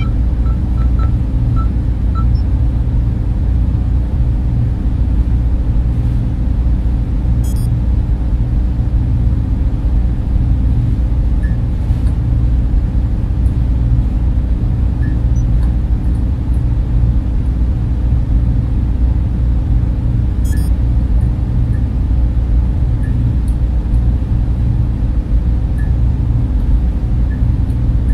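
Server room machines and their cooling fans running: a steady, deep hum and rush that never changes, with a few faint ticks.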